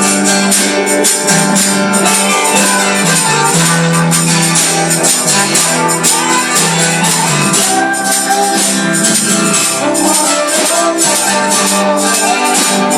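Live gospel band music, a tambourine shaking steadily on the beat over a bass line and other instruments.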